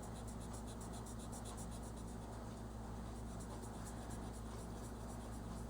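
Colouring strokes on paper: a colouring tool scratching back and forth quickly and steadily as an area of a colouring page is filled in.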